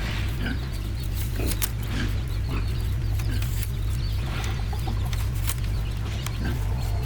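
Chickens clucking in short calls over a steady low hum, with scattered clicks.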